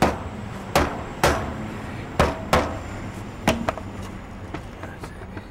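About nine sharp knocks, irregularly spaced, each with a short ringing tail, over a steady low hum. The knocks are loudest in the first half and grow fainter after about three and a half seconds.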